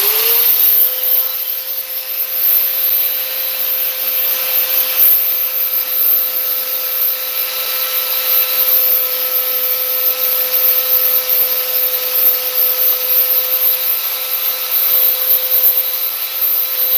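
Bauer angle grinder spinning up right at the start, then running at steady speed with a scraping rub as it sands cured body filler on a fiberglass door panel.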